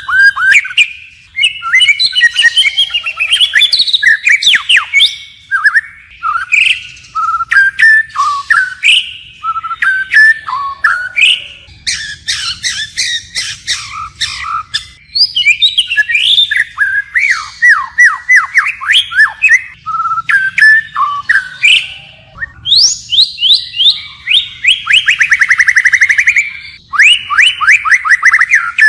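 White-rumped shama singing a long, varied song of clear whistles, chirps and quick falling notes, changing phrase constantly, with a very fast trill about three-quarters of the way through.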